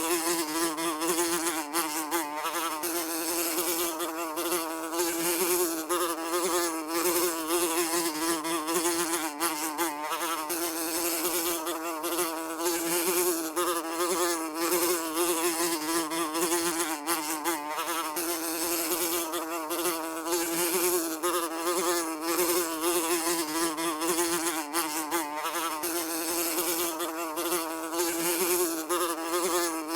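Housefly buzzing continuously in flight, a steady drone whose pitch wavers slightly up and down.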